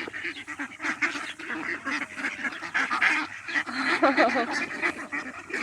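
Ducks quacking, several calling at once in a continuous overlapping clamour.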